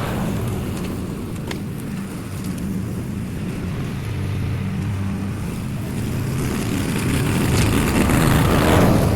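Lawn mower engine running steadily while cutting tall overgrown grass on a second, lower pass, growing louder near the end.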